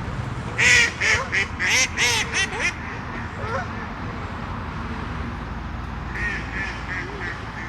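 A duck quacking in a quick run of about seven loud calls, then a fainter run of quacks near the end, over a steady low background rumble.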